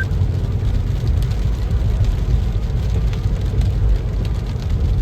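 Steady low rumble of a car driving, heard from inside the cabin, with rain pattering on the car.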